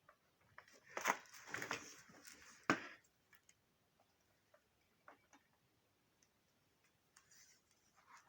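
Handling noise from work on electrical wiring: a burst of rustling and clicks in the first few seconds ending in one sharp click, then scattered faint ticks and taps.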